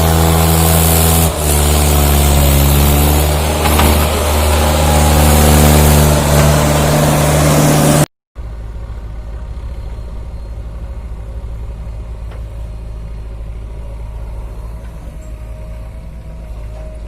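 Tractor diesel engine running hard under load, its pitch shifting up and down as the revs change. About eight seconds in the sound cuts off abruptly and gives way to a quieter, steady engine drone.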